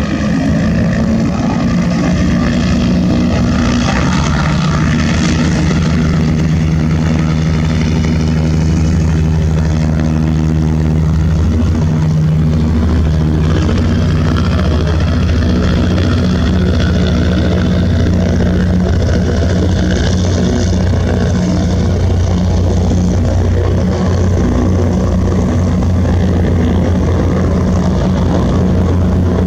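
Propeller aircraft engine running steadily close by, a loud low drone with a slight shift in pitch around the middle.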